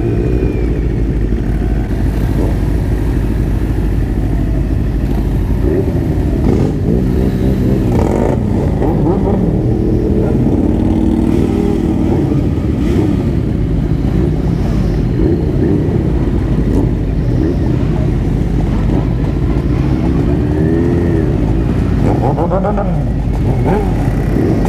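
Motorcycle engine running under way, over steady rushing wind noise. The engine pitch rises and falls several times as the throttle is opened and closed, with other motorcycles audible nearby.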